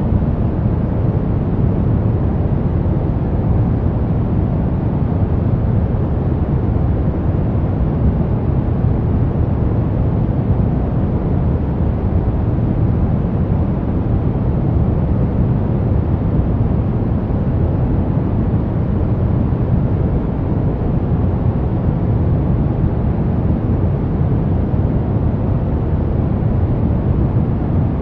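Steady brown noise: a constant deep rumbling hiss, strongest in the bass and falling off toward the treble, unchanging throughout.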